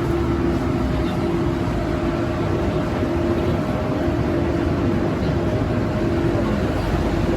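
BTS Skytrain train running, a steady rumble with a constant hum over it.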